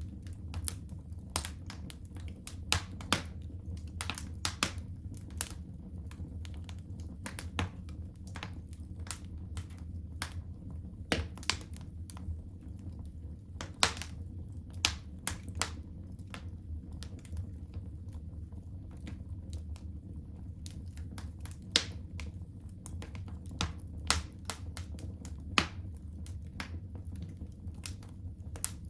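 Wood fire in a fireplace crackling: irregular sharp pops and snaps, a few every second, some much louder than the rest, over a low steady rumble.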